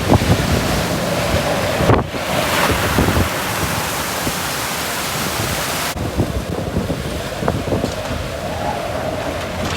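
Hurricane-force wind gusting hard and buffeting the microphone, with a faint wavering howl, over the rush of storm-surge water. The sound changes abruptly twice.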